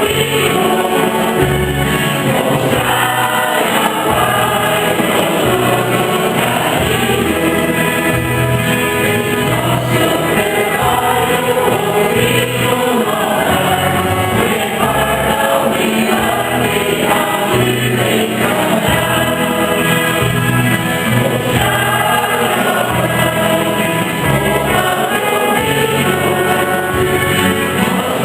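A community church choir singing a Mass hymn with instrumental accompaniment, over a steady pulsing bass.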